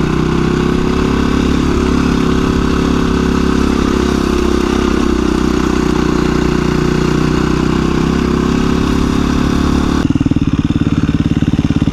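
2017 KTM 350 EXC-F single-cylinder four-stroke dirt bike engine running steadily at low trail speed, then dropping to a pulsing idle about ten seconds in as the bike comes to a stop.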